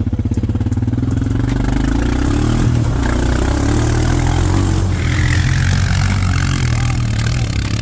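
Four-wheeler (ATV) engine idling with a fast, even putter, then revving up about two seconds in and running on under throttle.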